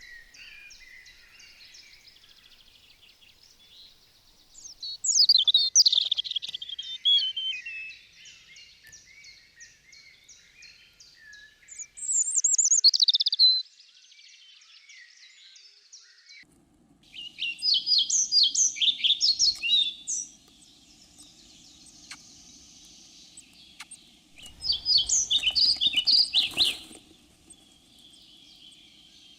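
A songbird singing: phrases of rapid high trilled notes, each about two seconds long, repeated every five or six seconds with quiet gaps between them.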